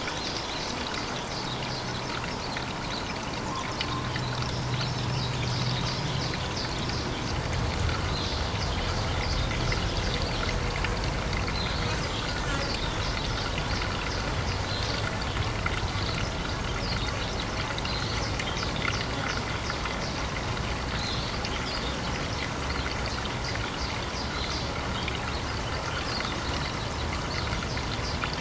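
Pond water trickling and pattering steadily, with many small drips and splashes.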